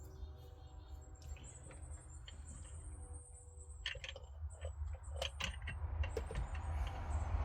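Light clicks, ticks and small rattles of metal and plastic parts and wiring being handled, growing busier in the second half, with a few thin high squeaks, as a fuel filter housing is worked into place in a cramped diesel engine bay.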